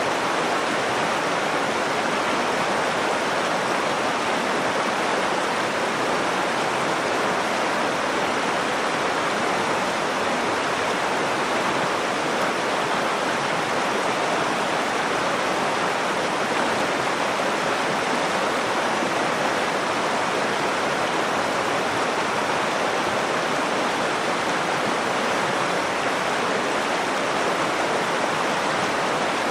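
Nakdong River water flowing: a steady, even rush of moving water that does not change.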